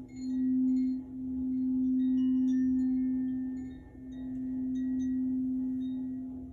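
Crystal singing bowl sounding one sustained low note that swells and fades in long waves, dipping about a second in and again near four seconds. Faint, brief high chiming tones sound above it.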